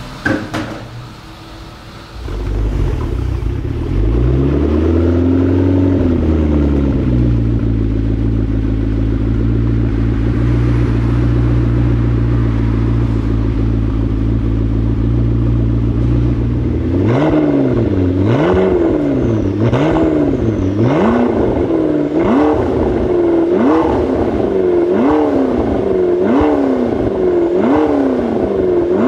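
McLaren MP4-12C's twin-turbo V8 through its exhaust. About two seconds in it becomes loud, gives one slow rev that rises and falls, and settles into a steady idle; from about halfway on the throttle is blipped repeatedly, about ten short revs, each rising and dropping back, roughly one a second.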